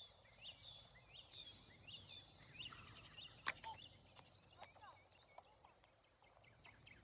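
Faint bird chirps, many short rising-and-falling notes, with one sharp click about three and a half seconds in.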